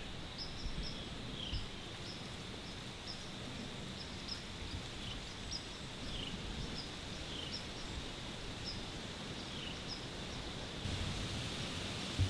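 Quiet outdoor morning ambience: a steady background hiss with faint, short bird chirps repeating throughout and an occasional lower down-slurred note. The hiss gets louder near the end, and there is a brief soft thump just before the end.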